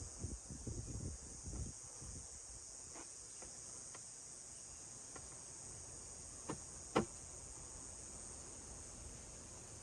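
Light handling noise while working on a drum shell: low bumps and rustles in the first two seconds, a few faint clicks, then two sharper taps about six and a half and seven seconds in, the second the loudest. A steady high-pitched hiss runs underneath.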